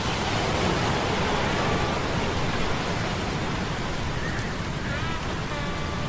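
Sea storm sound effect: a steady rush of rain and surf, with faint steady humming tones from metal gears. A few short gliding tones come in about four to five seconds in.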